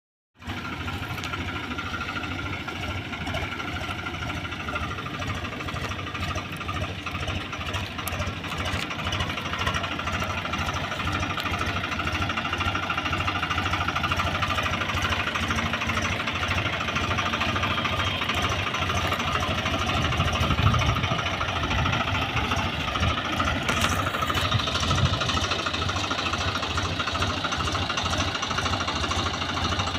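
Engine of a septic-tank suction tanker running steadily at a constant speed, with a pulsing low rumble.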